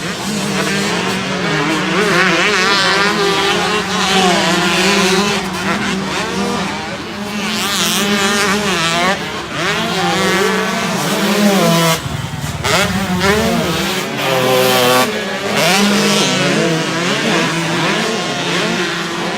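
Several motocross dirt bikes racing on a track, their engines revving up and down over one another.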